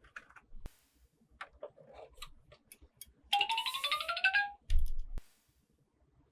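A short electronic chime jingle: a quick run of bright beeping notes stepping upward, lasting about a second, after a few light handling clicks, and followed by a brief low thump.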